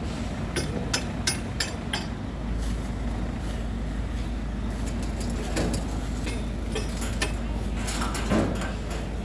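A quick run of sharp knocks and clinks of equipment being handled, then a steady low engine drone, with brief voices in the background.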